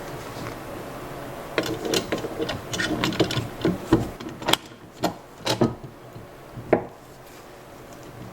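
Irregular knocks and scraping of parts and tools being handled, a quick run of them from about one and a half seconds in, thinning out to a few single knocks before it goes quiet near the end.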